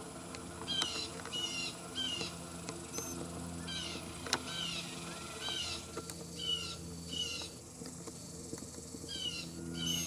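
A small songbird calling: short, sharp chirps with a downward slur, repeated about once or twice a second, over a steady low hum.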